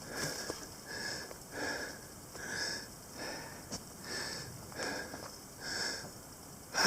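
A hiker breathing hard in steady, even breaths, about one every second, from the effort of walking uphill.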